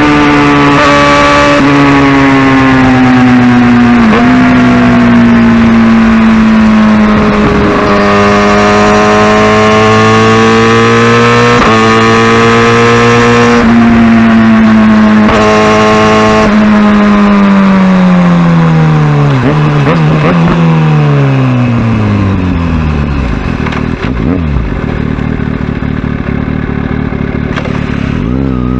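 Kawasaki Ninja ZX-6R inline-four engine heard while riding: a loud, high, steady note with small shifts in pitch, then a long fall in pitch over several seconds as the bike slows. It settles low and starts to climb again near the end.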